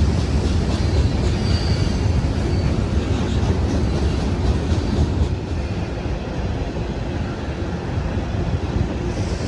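Freight train cars rolling past, a steady low rumble of wheels on rail with faint clicks from the rail joints.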